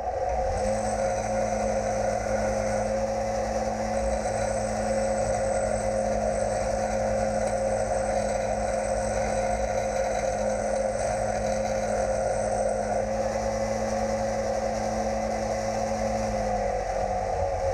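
Metal lathe running steadily while a steel pin is turned and smoothed. A low steady tone in it drops out near the end.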